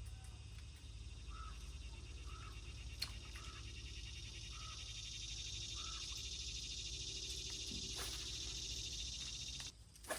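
Insects buzzing steadily in a high, finely pulsing drone that swells a little and stops abruptly near the end, with short chirps repeating about once a second during the first half.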